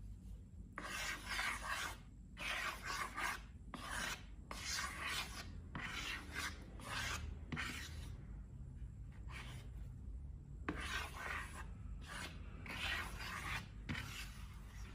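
Hands working and pressing slime: a series of noisy rubbing, crackling strokes, each about a second long, with short pauses between.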